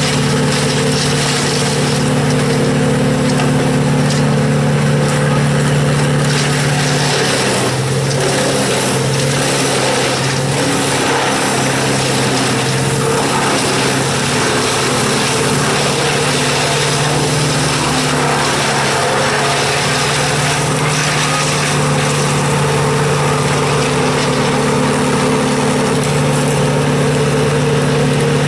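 An engine running steadily at one speed; its pitch drops slightly about seven seconds in and comes back up near the end.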